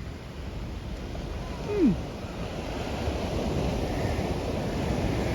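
Rough sea surf washing in, with wind buffeting the microphone, growing steadily louder. A single short falling tone comes about two seconds in.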